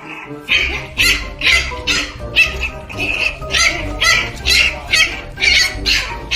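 A dog barking over and over, about two to three sharp barks a second, over background music whose bass beat comes in about half a second in.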